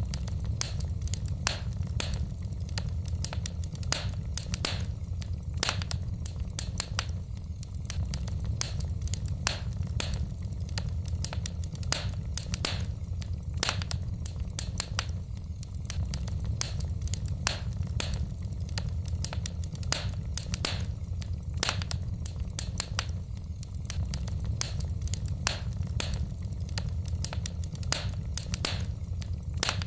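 Wood fire burning in a fireplace: irregular sharp crackles and pops from the burning logs, several a second, over a steady low rumble of the flames.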